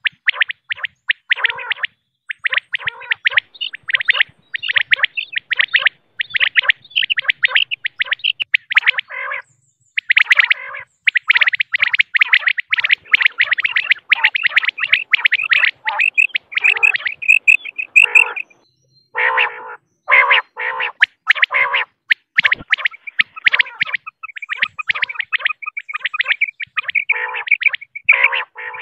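Female common quail calling: dense runs of rapid, short chirping notes that break off briefly a few times.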